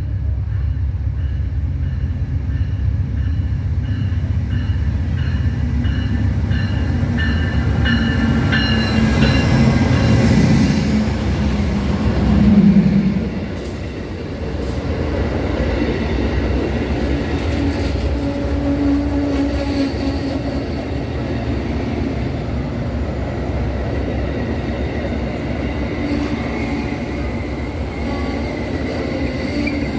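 A passenger train running past on the rails with a continuous rumble of wheels and cars, swelling to its loudest a little before halfway, then settling back to a steady run.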